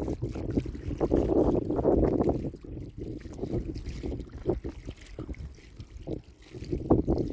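Water sloshing and splashing irregularly, in uneven swells with short splashes.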